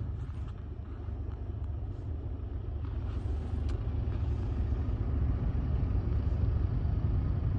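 Steady low rumble of a Chevrolet truck heard from inside the cab, slowly growing a little louder, with a faint click about three and a half seconds in.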